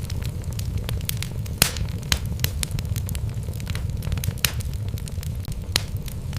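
Wood logs burning in a fireplace: a steady low rumble of the flames with frequent sharp crackles and a few louder pops.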